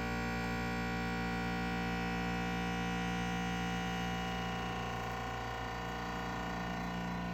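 An Electrolux household appliance running with an abnormal noise: a steady, droning hum made of many tones at once, holding unchanged throughout.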